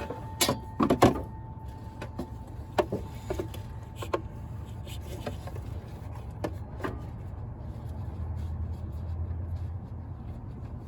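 Hand tools and metal parts clinking and knocking during work on the engine bay: a cluster of sharp knocks about a second in, then scattered lighter clicks over a steady low hum.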